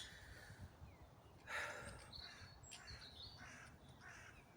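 Faint birdsong: a series of short harsh calls starting about a second and a half in, mixed with thin, high chirps of small birds.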